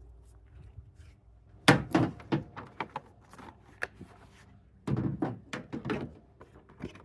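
Air filters being handled against a plastic airbox: sharp knocks and clatter in two bursts, the loudest about two seconds in and another run about five seconds in.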